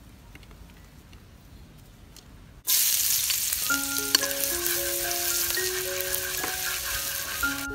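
Minced garlic frying in hot oil in a wok: a loud, steady sizzle that starts abruptly a little under three seconds in, stirred with chopsticks. Quiet before it; light background music with held melodic notes joins about a second after the sizzle starts.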